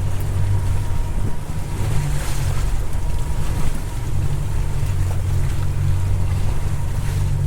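A motorboat's engine running steadily under way in rough sea, with the rush of waves and spray against the hull swelling about two seconds in and again near the end, and wind on the microphone.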